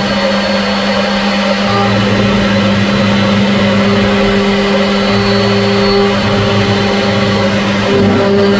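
CNC machine running: a steady motor hum and whirr, with lower and higher tones that cut in and out every second or two.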